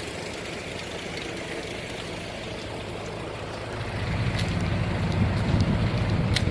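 Hyundai Grace's 2.5-litre four-cylinder turbo diesel engine idling steadily, growing louder and heavier about four seconds in.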